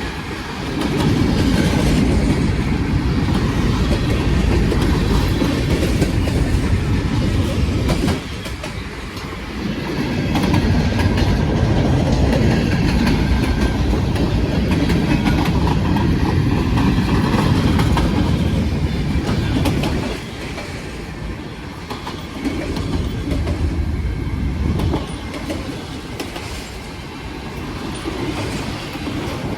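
A long freight train's cars rolling past, their wheels clacking over the rail joints in a heavy rumble. The rumble swells twice, dropping back briefly about eight seconds in and easing off after about twenty seconds.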